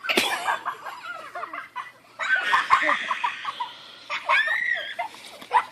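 People laughing in several bursts.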